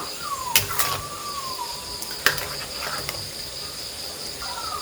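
Steady high-pitched insect drone, with a few sharp knocks and some short falling whistle-like calls.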